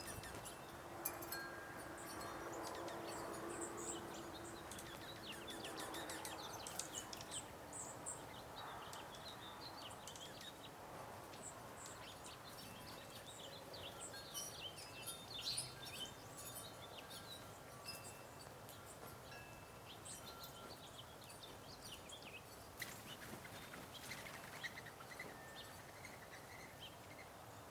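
Small wild birds chirping and calling, many short high chirps scattered throughout, with a few steady ringing tones in the first few seconds and again near the end.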